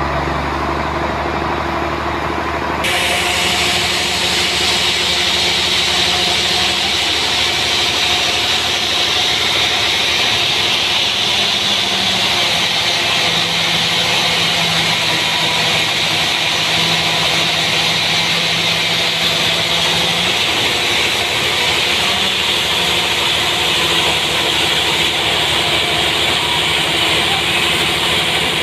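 Sawmill engine running steadily. About three seconds in, the saw starts cutting into a trembesi log, adding a loud, steady hiss that continues.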